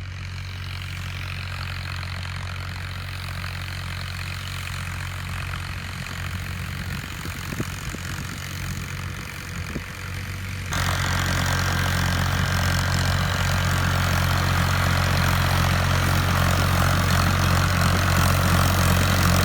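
Tractor diesel engine running steadily while pulling a disc harrow through a field. About eleven seconds in it gets clearly louder and stays up as the tractor pulls hard.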